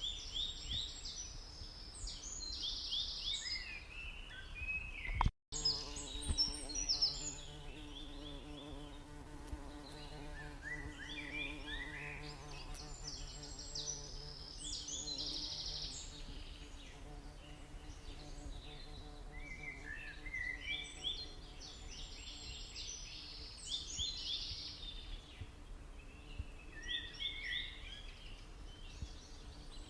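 Stingless bees buzzing in a steady hum that comes in about five seconds in and fades away over the second half. Forest birds sing over it, repeating short phrases of rapid, quick-sliding notes every few seconds.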